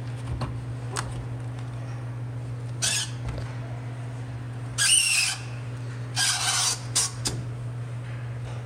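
Steady low hum with a few short squeaky scrapes and clicks, the loudest about five seconds in: air filters sliding against the metal filter tray of a dehumidifier as they are loaded.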